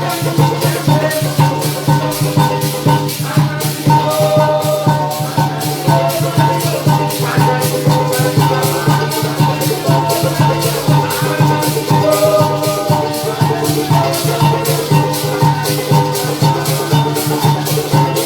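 Parang band playing an instrumental passage: plucked and strummed strings over a steady bass, with maracas shaking an even rhythm.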